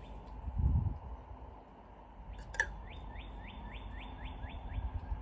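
A songbird calling a quick series of about nine downward-slurred whistled notes, about four a second, in the second half. A low thump about a second in and a sharp click midway come from the work nearby.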